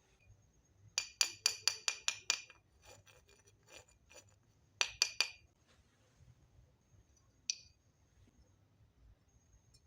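Small hard pieces of a miniature toy kitchen set clinking against each other with a bright, ringing tap. There is a quick run of about seven clinks about a second in, a group of four near the middle, and a single one later.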